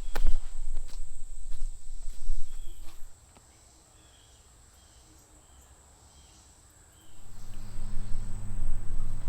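Footsteps crunching over a dry rocky creek bed under a steady high-pitched drone of insects. The steps stop about three seconds in, leaving faint repeated chirps, and a low steady hum comes in near the end.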